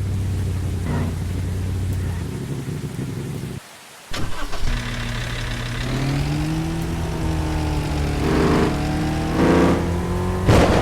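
Truck engine running steadily, then, after a short break, picking up speed with its pitch rising; a few brief bursts of noise come near the end.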